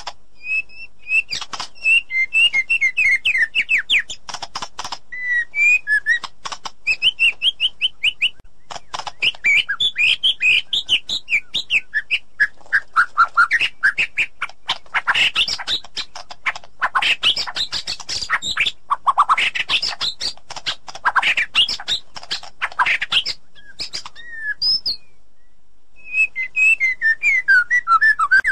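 White-rumped shama (murai batu) singing: a run of varied whistled phrases, rapid series of repeated notes and sliding notes, separated by short pauses, with a brief break near the end.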